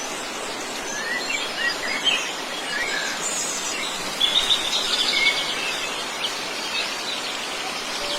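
Wild birds chirping and calling over a steady rushing outdoor background, the chirps busiest about halfway through.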